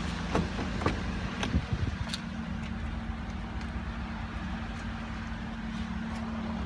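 2016 Chevrolet Silverado 1500's 5.3-litre V8 idling steadily after being remote-started, with a few light clicks in the first couple of seconds.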